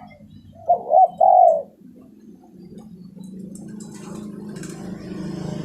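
Spotted dove cooing: a short phrase of about three notes about a second in. From about three seconds in, a steady low hum with a hiss rises beneath it.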